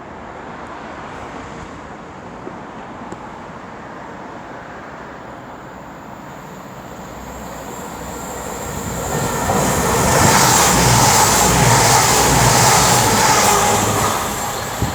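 A diesel train passing through the station: its noise builds steadily and is loudest from about ten seconds in, then begins to fade near the end.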